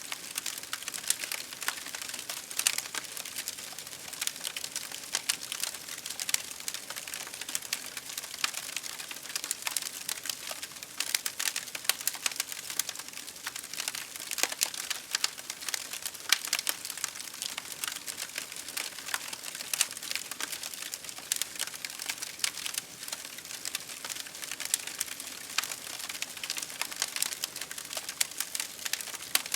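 Campfire crackling: a dense, irregular stream of sharp pops and snaps over a steady soft hiss.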